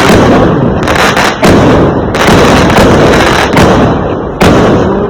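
Fireworks going off continuously: loud bangs about once or twice a second over a dense crackling of firecrackers.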